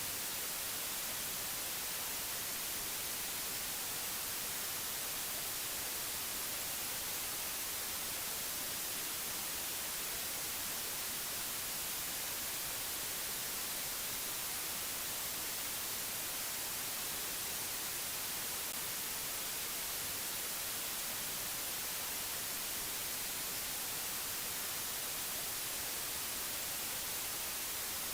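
Steady, unchanging hiss of white noise, strongest in the high treble.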